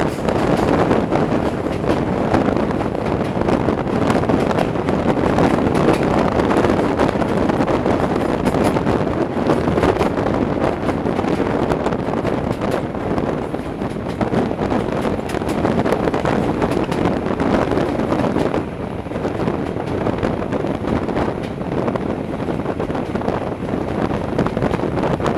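Steady running noise of a Class 26-hauled passenger train at speed, heard from an open coach window: wheels on the rails and wind buffeting the microphone. It eases slightly about two-thirds of the way through.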